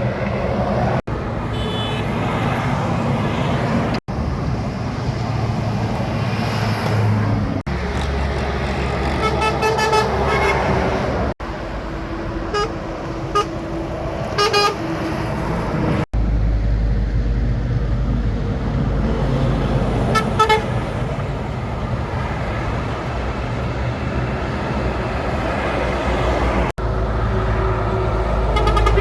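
Heavy trucks running past on a highway, their drivers sounding horns in short blasts several times. The sound jumps abruptly between clips.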